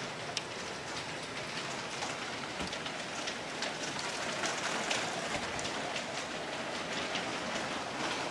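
Hailstones pelting down hard in a dense steady hiss, peppered with many sharp ticks of individual stones striking surfaces.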